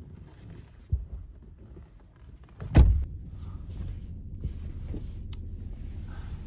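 A car door shut with a heavy thud about three seconds in, after a smaller knock about a second in, followed by a steady low rumble.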